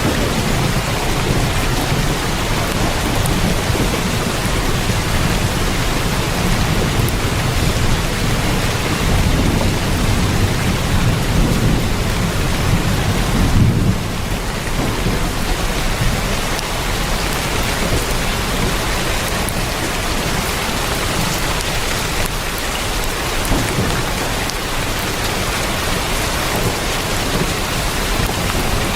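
Heavy rain falling steadily on a tin roof. Under it a low rumble swells and drops off suddenly about halfway through.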